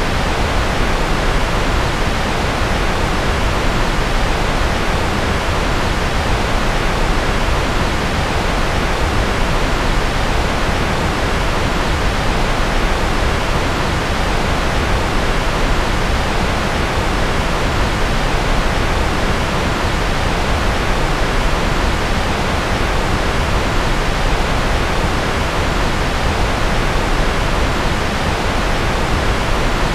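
Generated steady noise, sold as white noise: a loud, even, unbroken hiss that never changes, fuller in the low end and thinner at the top.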